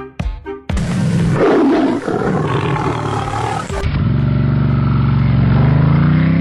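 A loud roar like a lion's starts about a second in. About four seconds in it turns into a low, rough growl that slowly rises in pitch.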